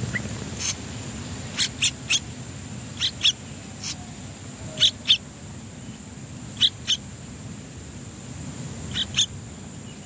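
Small songbird calls: about a dozen short, sharp chips, mostly in quick pairs about a quarter-second apart, repeated every second or two over a low steady background rumble.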